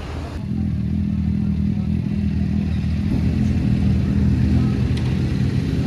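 Sport motorcycle engine running with a steady low note. The note comes in abruptly about half a second in and grows slightly louder.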